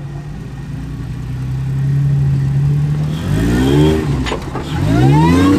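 Off-road Jeep engine running at a steady low speed, then revved twice, its pitch rising each time, the second rev cut off sharply at the end.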